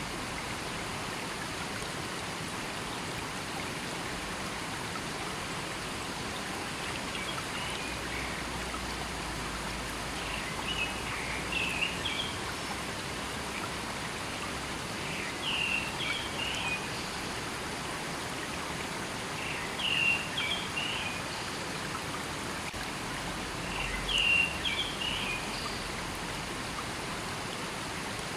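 River water flowing steadily. Over it a bird calls in short chirping phrases, about every four seconds, from about ten seconds in.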